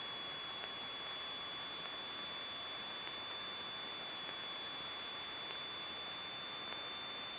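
Cockpit intercom audio line with no one talking: steady electrical hiss under a constant high-pitched whine, with a faint tick about every 1.2 seconds.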